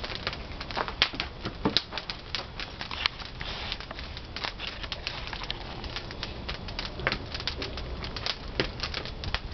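Debarked pine firewood burning in a traditional wood-fired kiln, crackling and popping irregularly over a low rumble of the fire.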